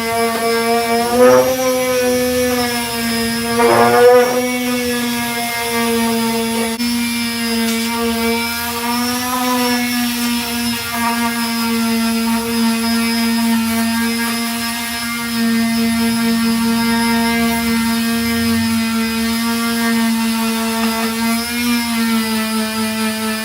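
Electric disc sander with a 240-grit disc, running steadily while sanding body filler. Its pitch dips briefly about a second in and again about four seconds in, as it is pressed harder onto the surface.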